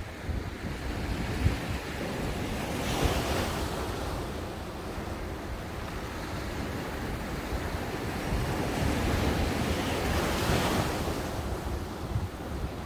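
Ocean waves breaking and washing onto the shore, with two swells of surf, one a few seconds in and another later on. Wind buffets the microphone with a steady low rumble.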